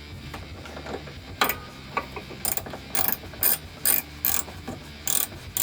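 Ratchet wrench driving a bolt home: a couple of isolated clicks, then short bursts of ratcheting clicks repeating about two to three times a second from midway on.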